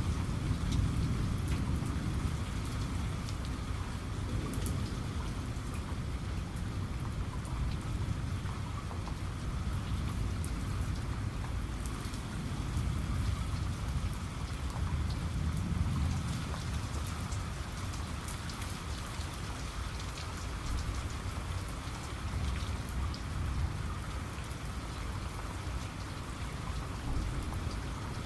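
Heavy rain falling steadily, the drops pattering on a surface, with low thunder rumbling and swelling near the start and again about halfway through.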